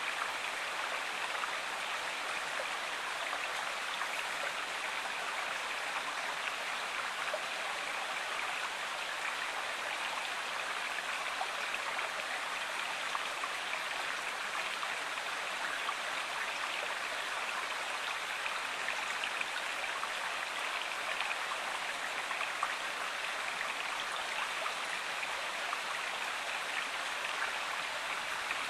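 Steady rushing and splashing of a stream's flowing water, even and unbroken.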